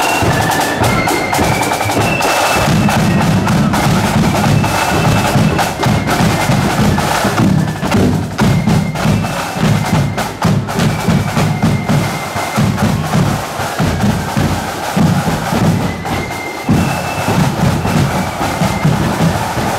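Marching flute band playing a march: a high flute melody over snare drums and a bass drum keeping a steady beat.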